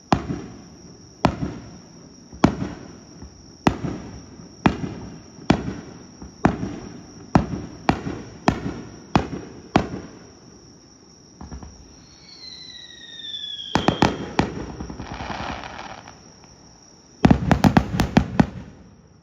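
Aerial firework shells bursting with sharp bangs about once a second. After a pause there is a falling whistle and then crackling, and near the end comes a rapid cluster of bangs in quick succession.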